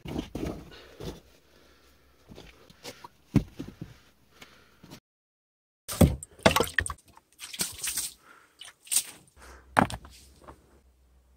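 Irregular knocks and clattering from hands-on building work, sharper and busier in the second half, broken by a short total drop-out of sound about five seconds in.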